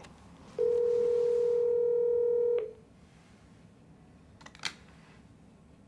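Linksys VoIP desk phone playing a ringback tone while the called extension rings: one steady ring of about two seconds that stops sharply. A single brief click follows a couple of seconds later.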